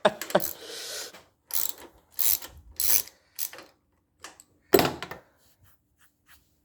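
A wrench being worked on the spark plug of a Kohler K241 engine: a run of short scraping, ratcheting strokes about half a second apart, with one louder scrape near the end.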